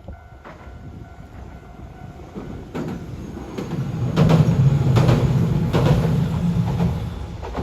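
A train passing on the rails, building from about three seconds in and loudest near the middle, with repeated clicks of wheels over rail joints.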